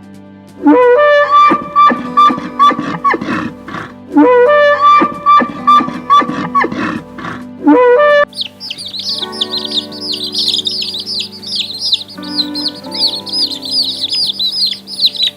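Music with held, sliding notes, then from about eight seconds in a rapid run of high bird chirps over the music.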